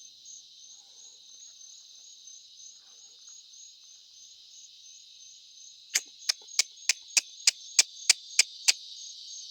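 A man clucking with his mouth, ten sharp clicks in under three seconds, imitating a turkey call, over a steady high chorus of crickets.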